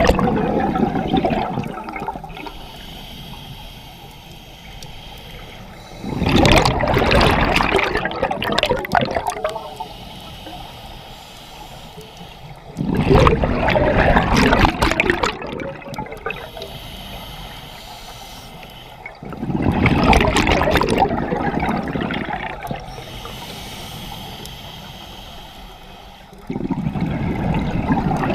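Scuba diver breathing through a regulator underwater: about four loud bubbling exhalations, each lasting about three seconds and coming every six to seven seconds, with a fainter hiss of inhalation between them.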